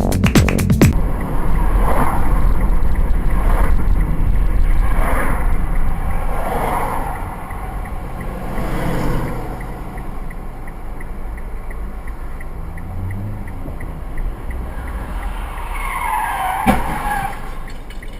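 Car driving, recorded by an in-car dashcam, with steady road noise and several short tyre squeals. About 16 seconds in comes a louder squeal, then a sudden bang: a collision.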